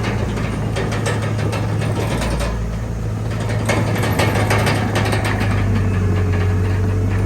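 Heavy diesel engine of a crawler bulldozer running steadily, with repeated metallic clanking and rattling throughout.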